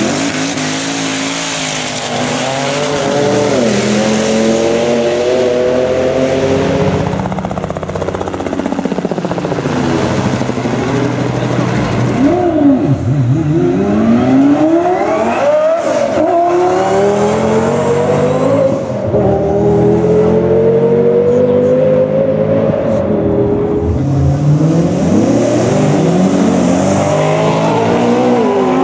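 High-powered drag racing cars accelerating at full throttle. Their engines climb in pitch through the gears, dropping sharply at each shift, and several cars sweep past.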